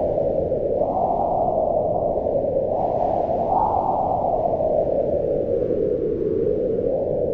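Howling wind in a snowstorm: a steady rush whose pitch swells up and sinks back in slow gusts every few seconds.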